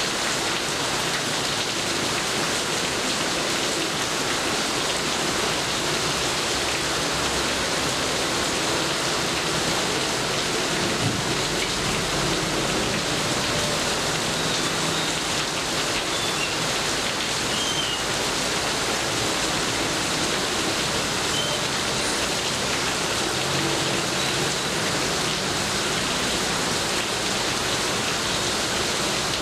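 Steady heavy rain, with a brief low rumble of thunder about eleven seconds in.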